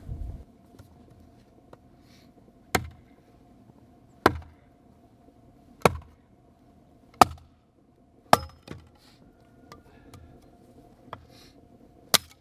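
Axe chopping wood: six sharp strikes, roughly one every second and a half, with a longer pause before the last.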